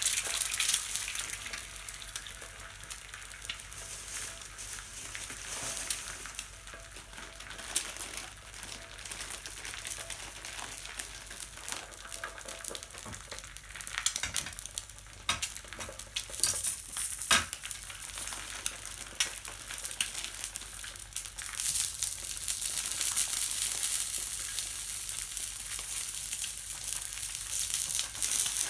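Food sizzling and crackling in a frying pan, with scattered sharp pops and clicks; the sizzle is louder near the start and again for the last several seconds.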